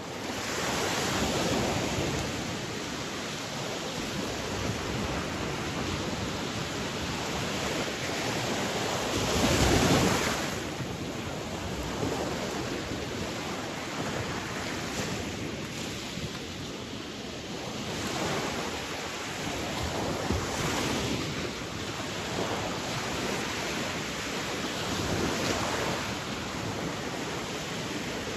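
Sea waves breaking and washing on the shore in a continuous rush, swelling and easing every few seconds, with one louder wave about ten seconds in.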